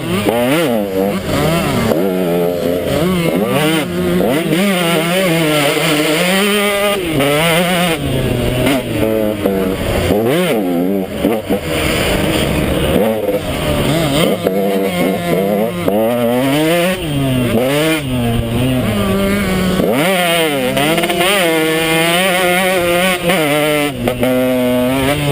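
KTM 150 XC two-stroke dirt bike engine being ridden hard, its pitch rising and falling constantly with the throttle and gear changes.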